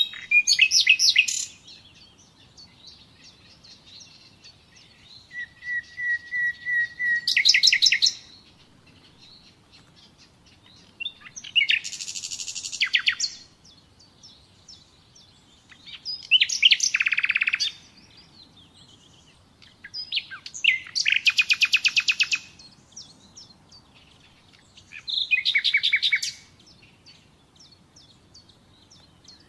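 Common nightingale singing: six separate phrases with pauses of a few seconds between them, made of rapid repeated notes and trills, one opening with a held whistle that breaks into a fast run of notes.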